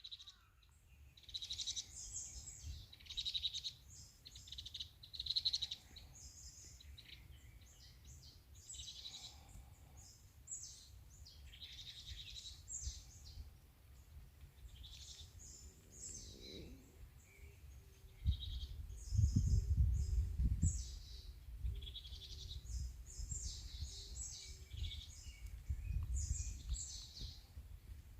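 Wild songbirds chirping and singing, many short high calls overlapping throughout. A low rumble sits underneath and swells to the loudest part about two-thirds of the way in.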